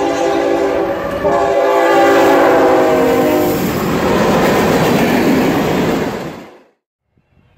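Norfolk Southern diesel freight locomotive sounding its multi-note air horn in two long blasts, the second sliding slightly lower in pitch as the locomotive goes by. Then the steady rumble and clatter of hopper and tank cars' wheels rolling past, cutting off about two-thirds of the way through.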